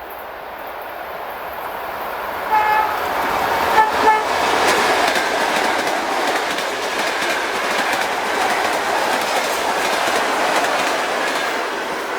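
Russian electric train sounding its horn in short blasts, one at about two and a half seconds and a quick pair about a second later, as it approaches. The running noise of the train then swells and holds as it passes, with wheel clatter on the rails.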